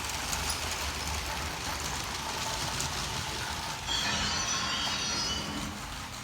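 Lego toy train running along its plastic track with a steady rattling rumble; about four seconds in, a high squeal sounds for nearly two seconds.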